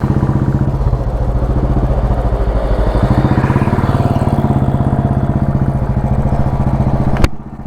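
Royal Enfield motorcycle engine running steadily with an even, pulsing note. The sound cuts off abruptly about seven seconds in.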